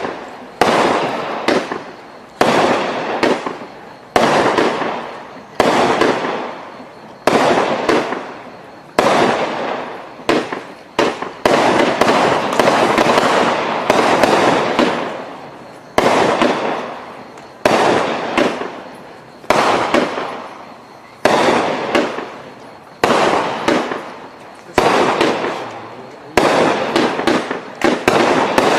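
A 500-gram fireworks cake firing a steady sequence of shots, about one every second and a half to two seconds. Each shot is a sharp bang followed by a fading crackle from the breaking effects.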